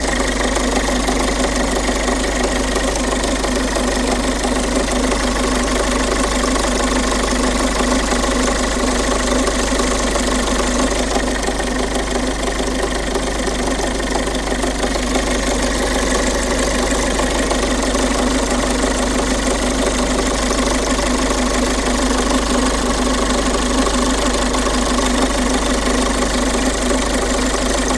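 A 1.5 HDi diesel engine running at a steady speed with a persistent knock. The knock is put down to the timing chain and camshafts.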